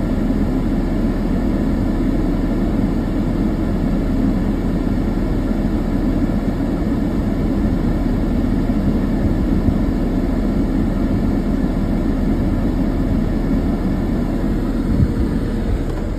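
A vehicle engine idling: a steady low rumble that holds even throughout.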